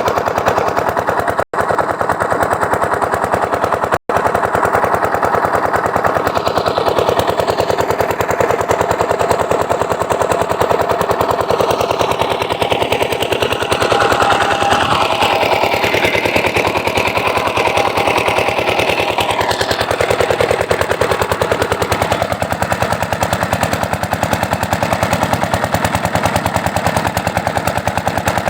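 Diesel engine driving a farm water pump, running steadily with a rapid, even knock of exhaust beats.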